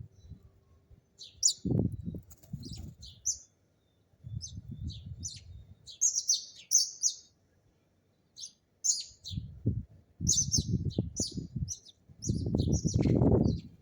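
Sparrows chirping in a steady run of short, high chirps. Several louder bursts of low rumbling noise come and go, the longest and loudest near the end.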